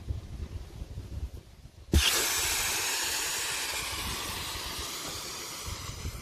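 Air hissing out of an 80 cm pilates ball as its plug is pulled, the ball deflating. The hiss starts suddenly about two seconds in and slowly fades, after a few low handling knocks.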